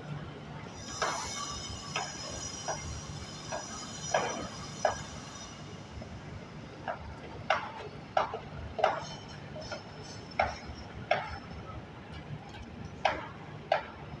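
Sharp, irregular knocks of construction work, roughly one a second, over a steady low hum. A faint high whine runs under them for the first few seconds.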